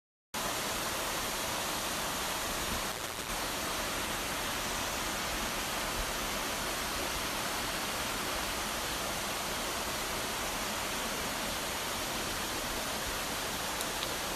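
Steady, even rush of falling water from a waterfall, cutting in sharply just after the start.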